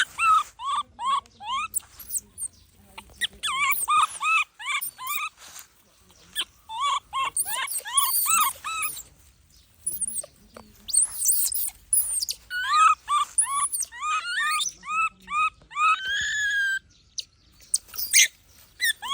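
Baby monkey crying: runs of short, high-pitched squealing calls, each rising and falling, several in quick succession with brief pauses, and one longer drawn-out cry near the end. These are distress cries.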